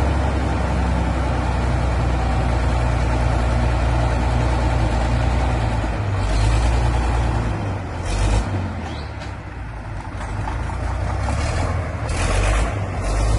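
Tractor diesel engine running steadily, with short bursts of rushing noise about eight seconds in and again near the end.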